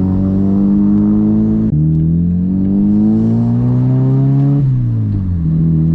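Audi 1.8T turbocharged four-cylinder engine pulling under acceleration: a gear change shortly before two seconds in, revs climbing steadily for nearly three seconds, then falling as the throttle is lifted and settling to steady running.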